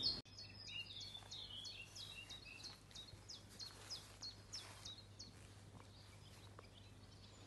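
A small songbird calling outdoors: a quick run of short, high notes, about three a second, which stops about halfway through.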